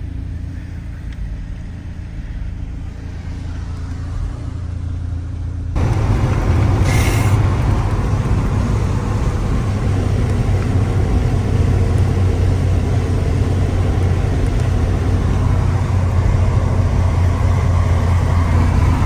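Car on the move: a steady engine and road drone that jumps abruptly louder and rougher about six seconds in, then holds.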